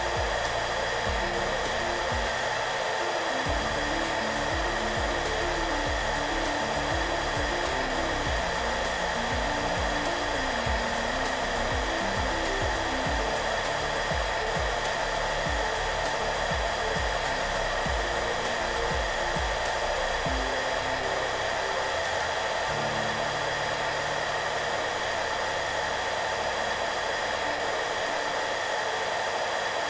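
Hair dryer running steadily, a constant airy whoosh with a fixed motor whine, used as white noise. Soft, low-pitched background music plays underneath, with a light beat through the first two-thirds that then drops out.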